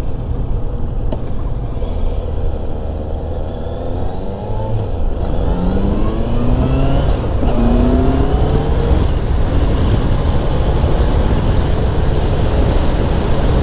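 2016 Honda CBR650F's inline-four engine on its stock exhaust, pulling away and accelerating: the engine note rises twice, broken by a gear change, then settles into a steady note at cruising speed. The stock exhaust is quiet enough that the rider says it would need an aftermarket one.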